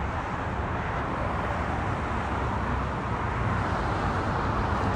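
Steady outdoor background noise, an even rushing with a low rumble underneath, like traffic or wind.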